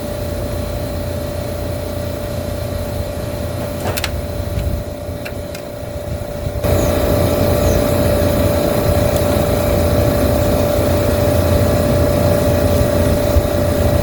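Steady mechanical hum of running machinery with a constant tone, a click about four seconds in, then a sudden jump to a louder, steady run about six and a half seconds in.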